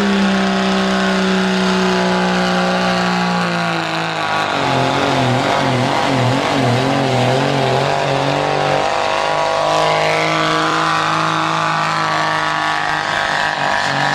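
A diesel truck engine runs hard under heavy load during a truck pull. Its pitch sinks over the first few seconds, wobbles up and down for several seconds, then holds steady.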